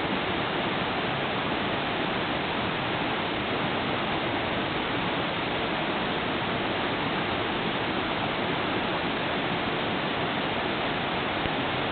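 River flowing: a steady, even rushing of water.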